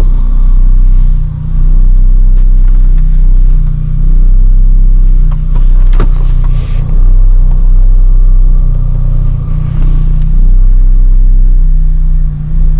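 Lotus Elise engine idling, heard from inside the cabin, with a steady whir running over the low engine note; the owner suspects the whir is the fuel pump. A sharp click about halfway through.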